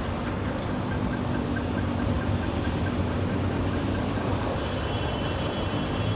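City street traffic: a steady rumble of passing vehicles with a low engine hum, and a fast, even ticking that fades over the first few seconds.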